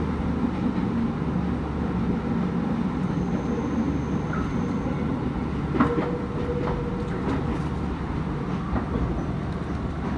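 Commuter electric train running along the track, heard from inside the front of the car: a steady low rumble of wheels on rail, with a sharp clack about six seconds in and a few fainter ones after it.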